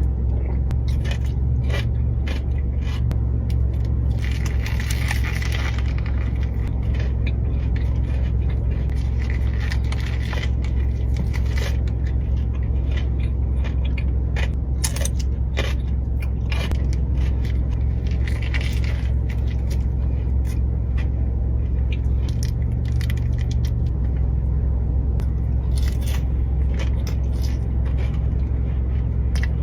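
Close-up eating sounds: chewing, with many short crackles and clicks from handling a paper food wrapper. A steady low rumble, like a car cabin's, runs underneath.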